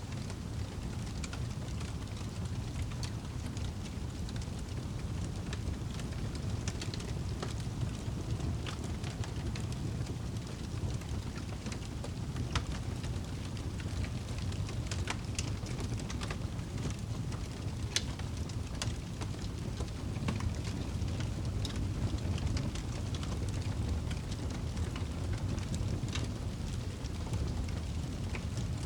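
Campfire burning: wood crackling with irregular sharp pops, two louder ones partway through, over a steady low rumble.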